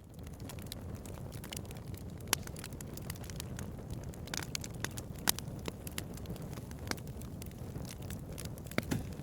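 Wood fire burning: a steady low sound of the flames with sharp crackles and pops scattered through it, the loudest about two, five and nine seconds in. It fades in at the very start.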